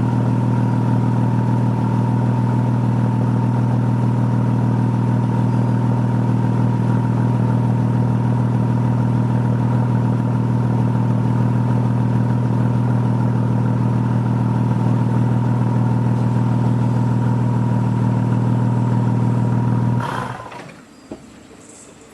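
Audi S4 (B5) 2.7-litre twin-turbo V6 running at a steady speed through an SSAC turbo-back exhaust with downpipes, then shut off near the end, its sound stopping abruptly.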